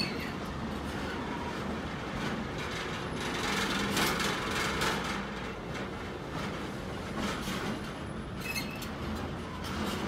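Freight train of empty container flat wagons rolling past close by: a steady rumble of wheels on rail with repeated clicks and clatter, louder around the middle, and a brief high ringing near the end.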